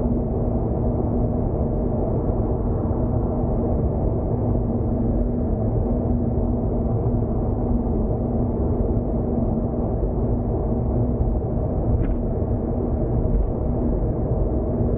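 Steady road and engine noise heard inside a car's cabin while cruising on an expressway: a low rumble with a steady hum through it. A brief click about twelve seconds in.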